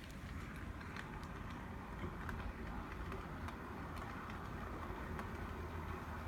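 Brass HOn3 model steam locomotive running on track: a steady hum of its motor and gearing, with scattered light clicks from the wheels on the rails.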